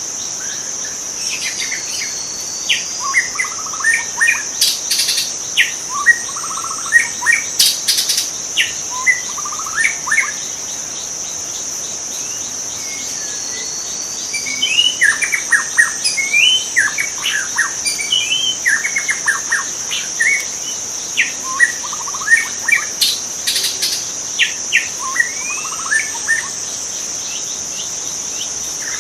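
White-rumped shama singing in bouts of varied whistled and chirping phrases, with a pause of a few seconds midway, over a steady high-pitched insect drone.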